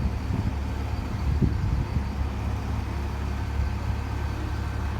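Heavy-equipment diesel engine running steadily with a low rumble. Two brief louder knocks come in the first two seconds.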